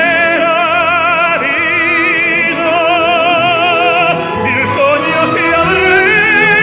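Operatic voice singing long held notes with a wide, even vibrato over instrumental accompaniment; the pitch shifts to new notes about two and five seconds in.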